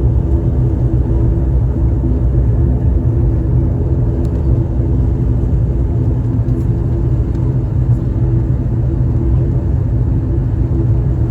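Aircraft engines running with a steady, loud low rumble and a faint steady hum above it.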